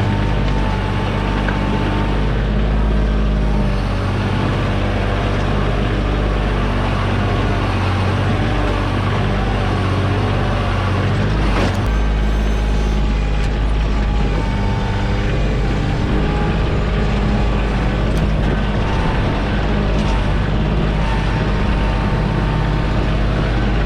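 Kioti compact tractor's diesel engine running steadily at working revs while digging with the backhoe, its note shifting a few times as the hydraulics take load. There is a single clunk about halfway through.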